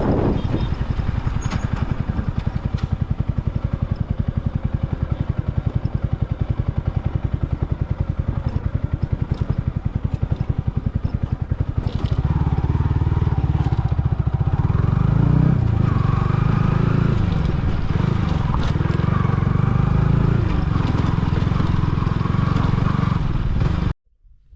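Yamaha R15 V3's single-cylinder engine running through an aftermarket Akrapovic exhaust (not a full system): idling with a fast, even pulse, then revved up and down repeatedly from about halfway. The sound cuts off abruptly near the end.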